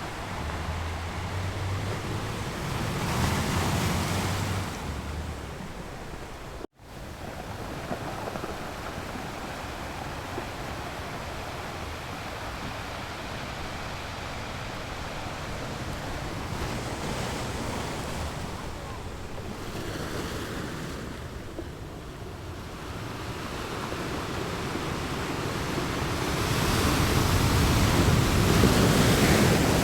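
Ocean waves rolling onto the shore: a steady wash of surf that swells as waves break, once early on and most loudly near the end. A brief cut-out in the sound comes about a quarter of the way in.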